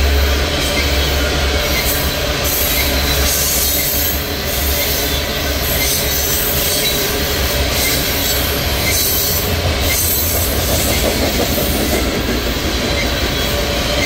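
Coal train hopper cars rolling past at speed: a steady rumble and clatter of steel wheels on rail, with high-pitched wheel squeal coming and going through the middle.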